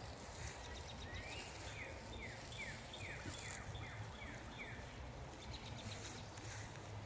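A songbird singing a run of about eight short falling notes, roughly two a second, starting about a second in and stopping near five seconds, over a steady low outdoor rumble.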